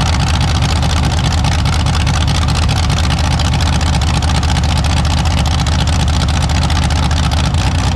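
A loud engine running steadily at constant speed, with no rise or fall in revs.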